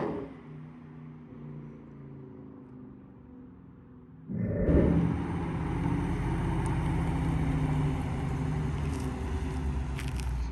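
Dodge Charger Scat Pack's 6.4-litre Hemi V8 off the throttle after a hard 0-60 run, dropping to a low rumble. About four seconds in, a louder, steady engine rumble comes in abruptly.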